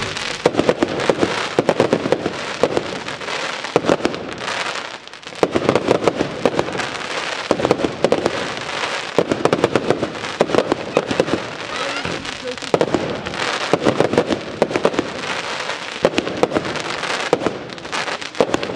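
Fireworks display: a dense, rapid run of launches, bangs and crackles from aerial shells, easing briefly about five seconds in before picking up again.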